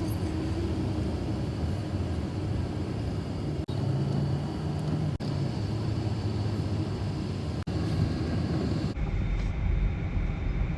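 Steady car engine and road rumble heard from inside a moving car. The sound cuts out for an instant three times, and about nine seconds in it turns deeper and duller.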